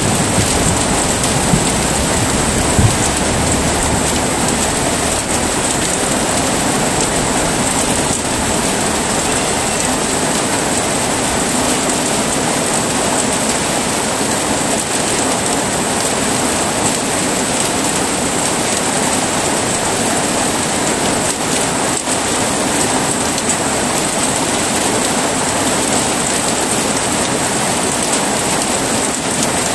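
Heavy rain falling steadily, a dense even hiss. The low rumble of thunder dies away in the first few seconds.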